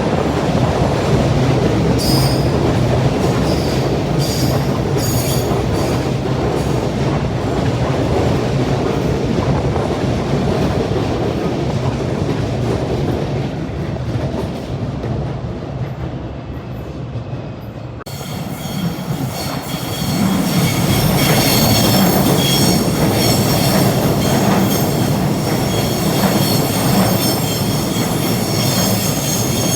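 Train running along the elevated track, wheels on the rails, with no horn. About two-thirds of the way in the sound changes abruptly and a steady high-pitched wheel squeal sits over the running noise.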